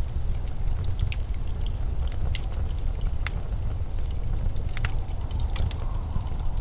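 Steady low rumble of blizzard wind, with scattered sharp crackles and ticks over it.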